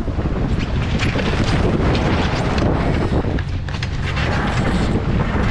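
Steady wind buffeting the microphone over rushing water on an E Scow racing sailboat under way.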